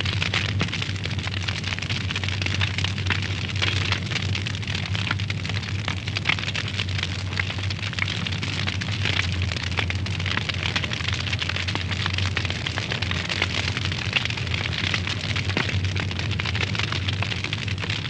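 Wood fire burning in a fireplace, a dense, continuous crackle of small pops and snaps with a steady low hum underneath.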